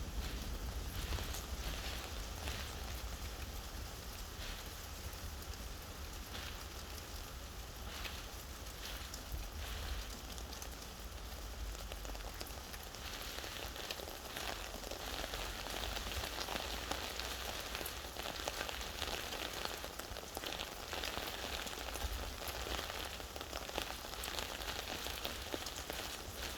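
Steady rain falling on a surface, with many individual drop hits over an even hiss and a constant low rumble underneath. The rain is heavier for several seconds around the middle.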